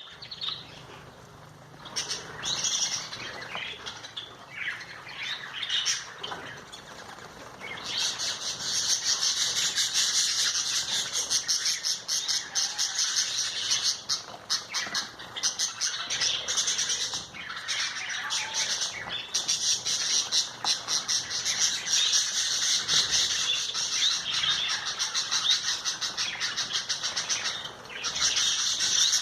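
Small birds bathing: high chirps and rapid fluttering wing-splashes, scattered at first, then a dense, continuous flurry from about eight seconds in, with a few brief lulls.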